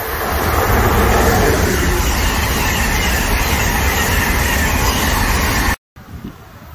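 Train passing close by: a loud rush of wheel and rail noise over a deep rumble, with a tone dropping in pitch in the first couple of seconds. It cuts off abruptly near the end, leaving quieter wind noise.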